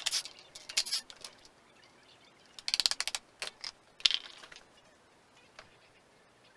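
Hand-tool work on metal parts: a few separate clicks and knocks, with a quick run of about ten rapid clicks near the middle.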